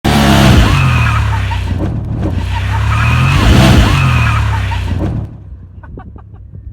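Loud engine revving with a noisy skidding sound, rising and falling in pitch, cutting down to a much quieter level about five seconds in.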